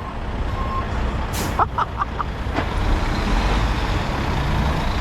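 Heavy diesel engines of an excavator and dump trucks running with a steady deep rumble, building slightly after the middle. A short hiss of air comes about a second and a half in, followed by a few brief squeaks and clicks.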